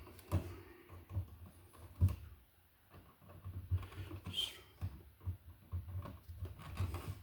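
Irregular light clicks, taps and scrapes of stripped electrical wires being handled and lined up by hand.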